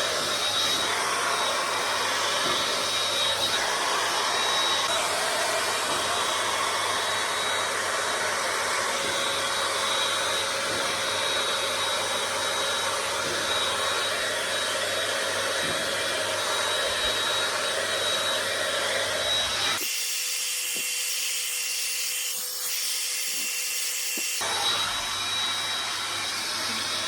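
Bombae Hairess 3-in-1 hot air brush running steadily, its airflow carrying a thin high whine. For about four seconds near the end the deeper part of the sound drops away, then returns.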